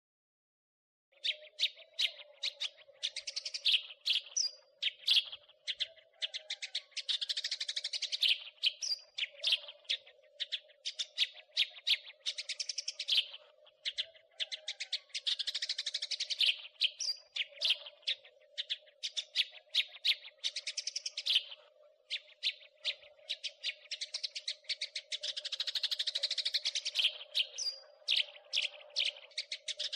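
House sparrow chattering: dense runs of rapid, short chirps that start about a second in, after a brief silence. A faint steady low hum lies underneath.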